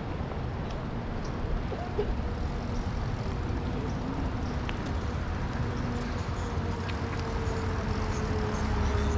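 Steady wind rush and road noise from riding a Super73 electric bike, with car traffic going by. In the second half a faint tone slowly falls in pitch.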